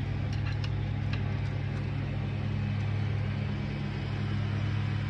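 Steady low mechanical hum, like a motor or engine running nearby, with a few faint clicks as the last supercharger bolt is worked loose.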